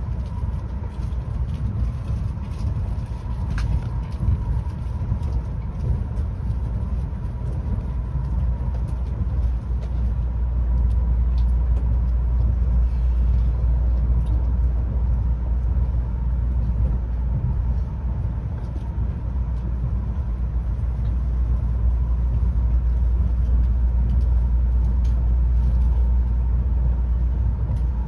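Tokaido Shinkansen running at speed, heard from inside the passenger car: a steady low rumble with a faint steady high tone over it, growing louder about ten seconds in.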